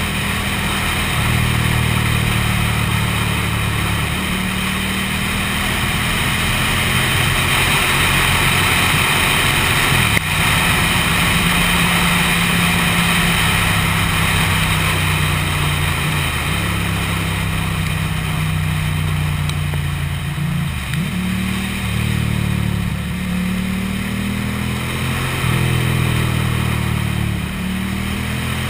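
Ducati motorcycle engine running under way, its pitch rising and falling with throttle and gear changes, over steady wind and road noise.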